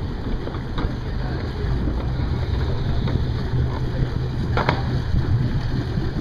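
Motorboat engine running with a steady low hum, wind buffeting the microphone. A single brief knock about four and a half seconds in.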